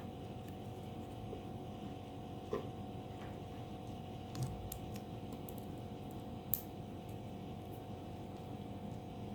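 A few faint clicks and taps from paper pieces being handled and pressed together, over a steady hum; the sharpest click comes about six and a half seconds in.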